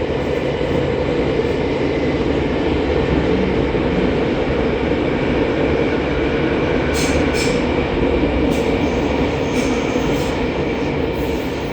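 Running noise inside a JR East E231 series 800 commuter train in a subway tunnel: a steady rumble of wheels on rail as it nears Iidabashi station. A few short sharp clicks or hisses come in from about seven seconds in.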